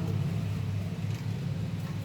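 Table fan's electric motor running with a steady low hum.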